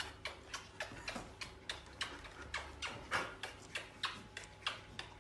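A fast, even series of short clicks or taps, about four a second.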